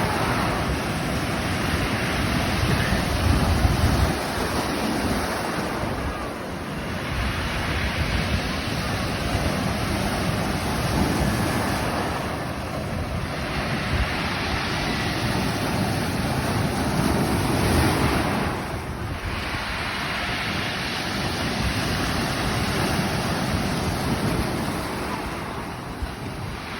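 Sea surf: waves washing in and breaking, the noise swelling and easing every six or seven seconds, with wind buffeting the microphone.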